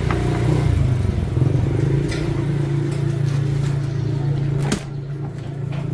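A motor running steadily with a low hum, with a few light clicks and a sharp knock about three-quarters of the way through, after which it runs a little quieter.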